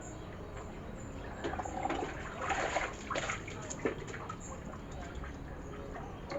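Water splashing and trickling as tomato seedlings are watered, in an irregular spell from about a second and a half in until about four seconds.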